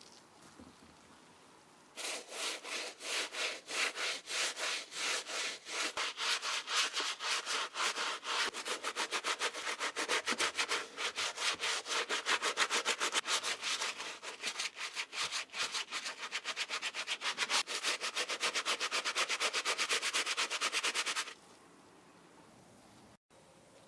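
Rapid back-and-forth rubbing strokes on a sneaker, several a second and quickening partway through, starting about two seconds in and stopping suddenly near the end.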